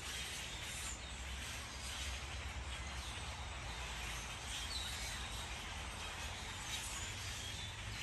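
Outdoor ambience: a steady hiss and low rumble, with a few faint, short bird chirps now and then.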